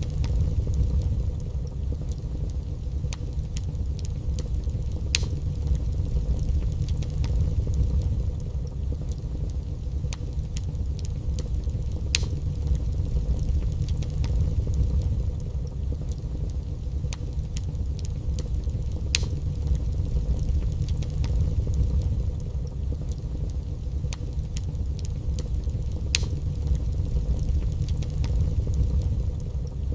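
Wood fire burning in a fireplace: a steady low roar with scattered sharp crackles and pops every second or two.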